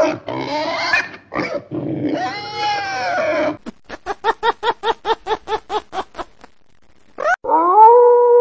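A run of different animal calls: a domestic pig's squeals and grunts, then about fifteen short, evenly spaced calls at roughly five a second, then near the end a wolf howl that rises and is held on one steady note.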